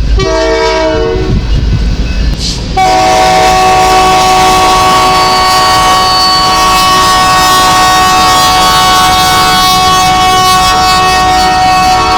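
Loud locomotive air horn. A brief blast opens, then about three seconds in comes a long, steady blast of several notes sounding together, still holding at the end.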